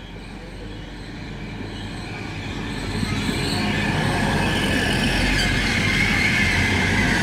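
Grand Central Class 180 diesel multiple unit running into the platform, growing steadily louder over the first few seconds as it approaches, then a steady rumble as the carriages pass close by. A high-pitched squeal comes in during the later seconds.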